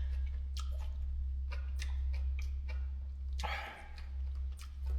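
Food being stirred in a cooking pot: irregular short clicks and wet squishy sounds, with a longer scrape about three and a half seconds in, over a steady low hum.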